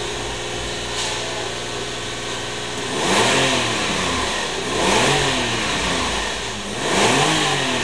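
2001 Subaru Outback's 3.0-litre flat-six engine idling steadily, then revved and let fall back three times, about two seconds apart.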